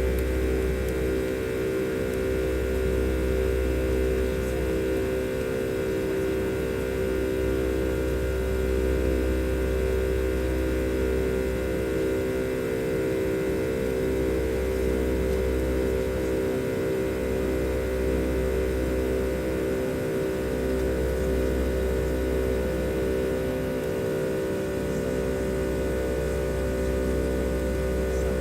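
Steady cabin drone of a Boeing 737's jet engines in climb, a low rumble under a constant hum of several tones.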